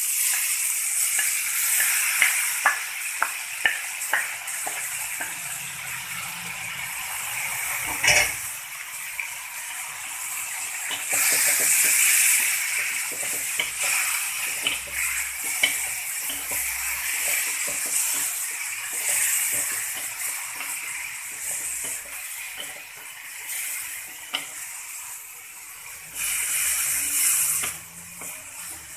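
Crushed cassava leaves sizzling in hot oil in an aluminium wok, stirred with a wooden spatula that knocks and scrapes against the pan. The sizzle swells several times, about a third of the way in, around two-thirds and near the end.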